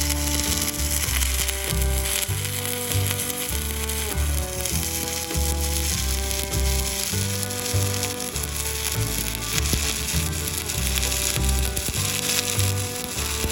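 Shielded metal arc (stick) welding with a 7018 electrode: a steady crackling, sizzling arc, laid over background music.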